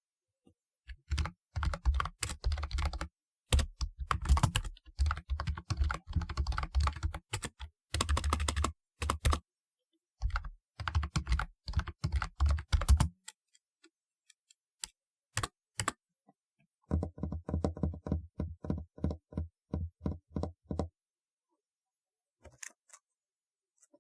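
Typewriter-style keyboard being typed on in quick bursts of keystrokes with short pauses between. After a few scattered single clicks, a steadier run of keystrokes follows before the typing stops near the end.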